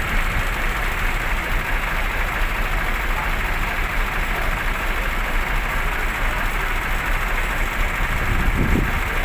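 Vehicle engines running at idle, a steady low rumble under a broad hiss, with a short low surge near the end.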